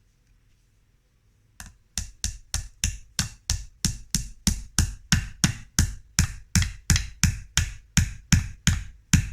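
Hammer driving a nail into a wooden beehive frame: a steady run of about twenty quick blows, roughly three a second, starting about a second and a half in.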